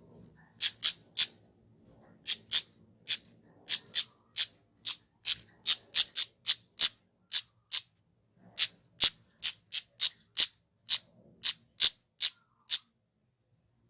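Kemade (flowerpecker) calling: a quick, uneven series of short, sharp, high-pitched call notes, two to three a second, that stops near the end.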